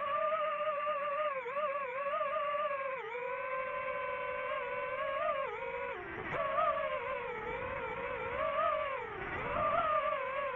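DJI FPV drone's motors and propellers whining in flight. The pitch wavers with the throttle and dips sharply three times.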